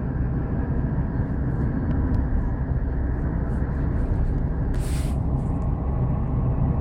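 Steady rumble of a moving train heard from inside the carriage, with a brief hiss about five seconds in.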